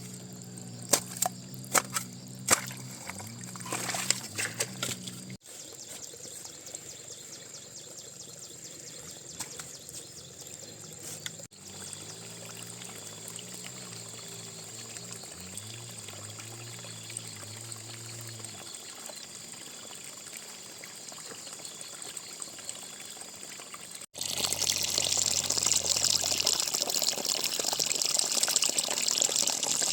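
Water pouring and trickling, across several short cut clips, with a low steady hum underneath in places and a few sharp knocks near the start. About 24 seconds in, it changes to much louder rushing, gushing water.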